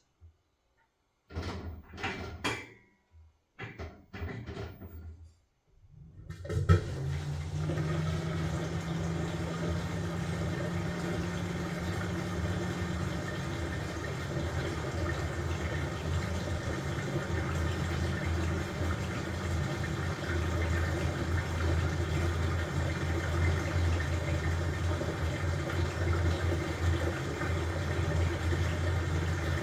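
LG washing machine: a few short sounds in a near-quiet pause, then about six seconds in a steady hum with rushing water starts up and runs on.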